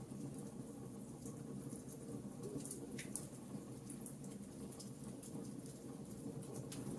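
Wood fire crackling in a fireplace: a steady low rumble of flame under scattered small pops and snaps, with one sharper pop about three seconds in.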